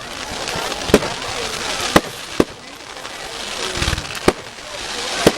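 Fireworks going off: about five sharp bangs, spaced a second or so apart, over a steady background hiss.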